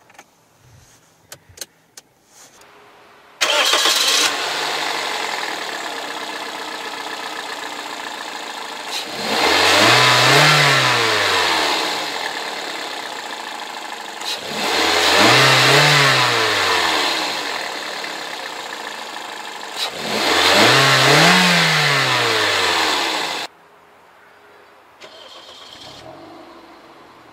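2005 Toyota Corolla's 1.6-litre 3ZZ-FE inline-four starting up after a few clicks, then idling and revved three times, each rev rising and falling in pitch. The engine sound cuts off abruptly near the end.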